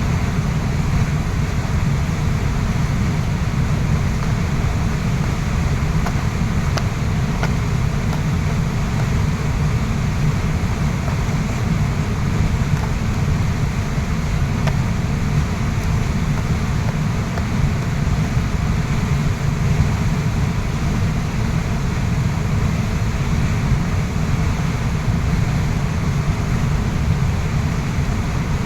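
Waterfall pouring steadily: an even, unbroken rush of water with a deep rumble underneath.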